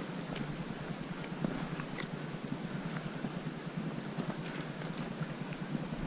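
Irregular crunching and small clicks over a steady rushing noise.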